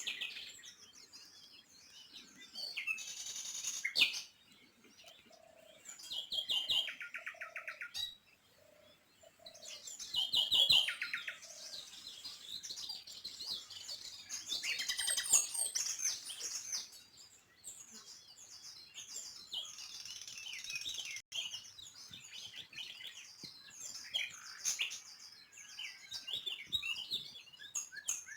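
Several songbirds chirping and twittering at once, with quick high chirps and a few rapid trills.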